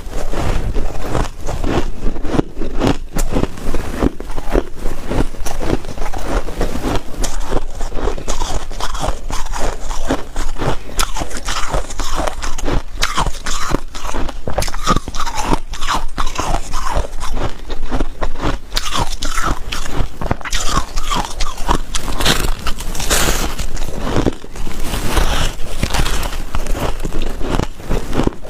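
Hard white ice cubes being bitten and chewed, a dense, continuous run of sharp crunches and cracks.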